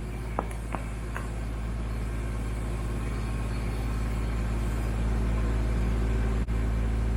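Kubota B2650 tractor's three-cylinder diesel engine running steadily while working the BH77 backhoe, growing louder over the first five seconds. A few short metallic clinks sound in the first second and a half.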